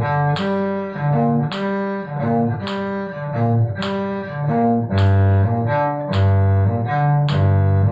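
Cello playing a G minor arpeggio bowing study for string crossings: the notes G, B flat and D repeated in a lilting 6/8 feel, with a new note about every half second.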